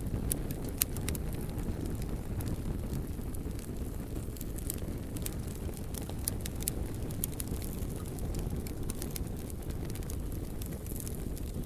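Wood fire burning: a steady low rumble of flame with irregular sharp crackles and pops, one louder pop about a second in.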